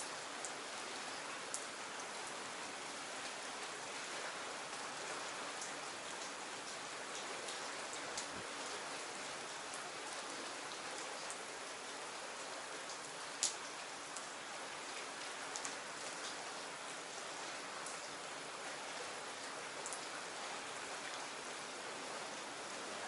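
Steady rain falling, an even hiss with scattered sharper drop ticks, one of them clearly louder about halfway through.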